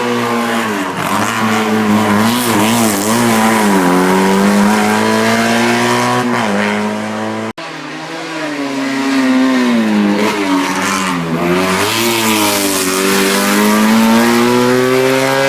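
Race car engine under hard acceleration, its pitch climbing and then dipping again and again as it changes gear. The sound breaks off suddenly about halfway through and picks up again on another run, climbing steadily towards the end.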